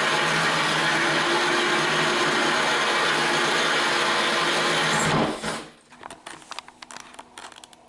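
A DeWalt corded drill running steadily at speed while a diamond-coated bit grinds into porcelain tile. The motor winds down and stops about five seconds in, and a few light clicks and taps follow.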